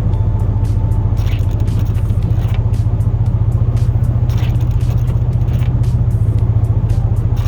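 Chevrolet Silverado plow truck's engine running steadily, heard from inside the cab as a deep, evenly pulsing drone, with faint brief swishes recurring about every second or two.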